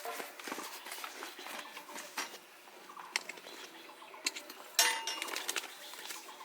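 Small metal items being handled, with scattered clinks and knocks and one louder clank about five seconds in that rings briefly.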